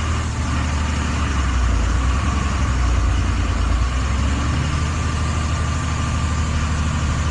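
A vehicle engine idling steadily under a continuous rushing noise, its note shifting slightly about four and a half seconds in.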